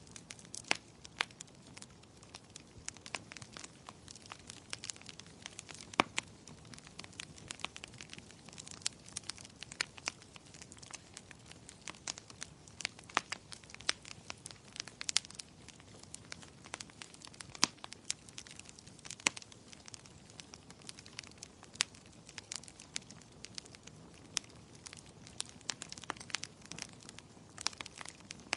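Fire in a fireplace crackling: irregular sharp pops and snaps, several a second, over a soft steady low hiss.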